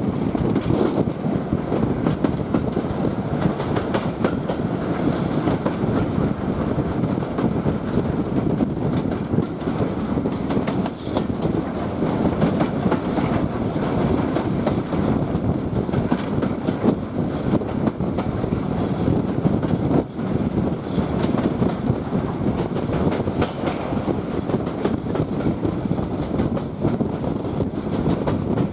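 Passenger train hauled by LSWR S15 steam locomotive No 506, heard from aboard: a steady rumble of the coaches running along the track, with wheels clicking over rail joints.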